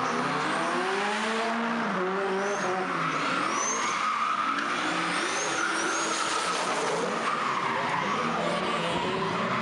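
Turbocharged Chevrolet LS V8 in a Nissan Silvia S14 revving up and down repeatedly while drifting, with tyres squealing steadily. Several short, high whistles rise and fall over the engine.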